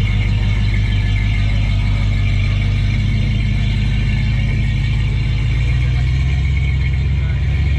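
Car engine running at low revs, a steady low rumble whose pitch shifts about five and a half seconds in.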